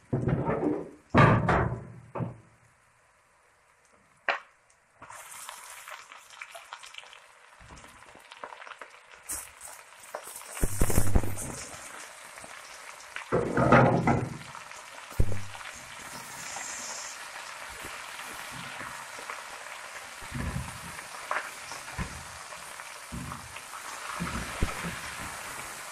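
Hot oil sizzling in a steel pot as raw desi chicken pieces are tipped in over fried onions and ginger-garlic paste and stirred with a spatula. The sizzle starts about five seconds in, with two loud thuds in the middle and lighter knocks of stirring later.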